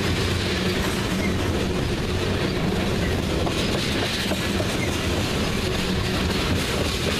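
Tank cars of a crude oil freight train rolling past close by: a steady rumble of steel wheels on the rails.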